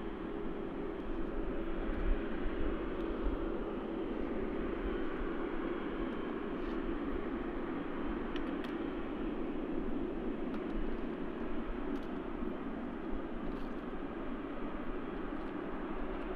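Jet aircraft engines running with a steady drone.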